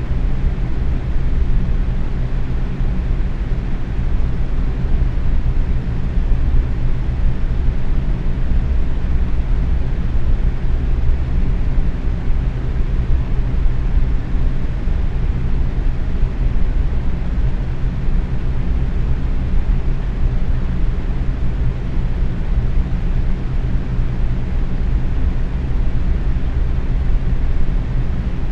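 Box fan running steadily at medium speed: an even rush of moving air, heaviest in the low end, with faint steady hum tones underneath.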